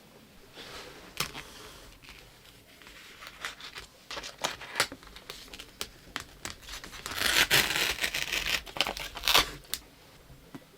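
Packaging being crinkled and torn by hand, with many small clicks and crackles. The crinkling is loudest from about seven to nine and a half seconds in.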